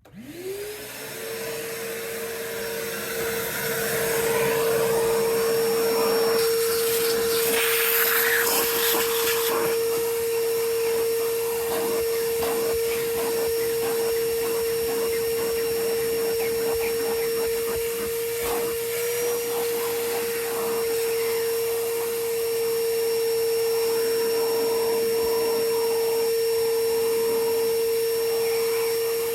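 Vacuum cleaner switched on, its motor spinning up within about a second to a steady whine and running on. Many small clicks and rattles run over the rush of air as it picks up debris from the truck's interior.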